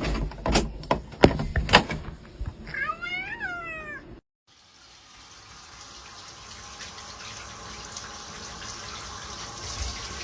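A few sharp knocks, then a cat meows once, its pitch rising and falling. After a sudden cut comes a steady hiss that slowly grows louder.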